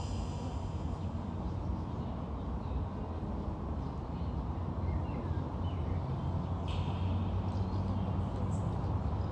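Outdoor ambience: a steady low rumble, with a few short high bird calls in the middle and a brief higher call a little before the end.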